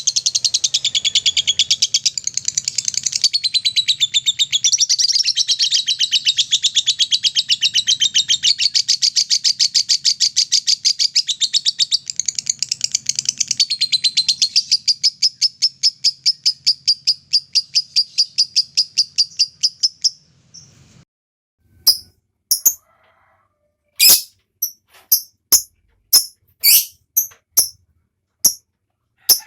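Lovebird singing its long 'ngekek' song: a fast, unbroken chattering trill of evenly repeated high notes that lasts about twenty seconds and stops abruptly. It is followed by a string of short, separate chirps.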